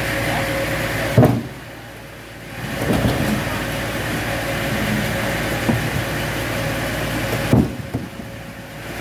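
Sawmill machinery running steadily with a constant hum. A sharp knock comes about a second in and again near the end, each followed by a brief quieter spell before the running noise comes back up.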